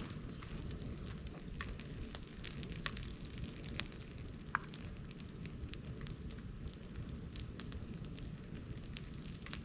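Bonfire of dried cut bamboo and brush burning: a steady low rush of flame with scattered sharp crackles and pops.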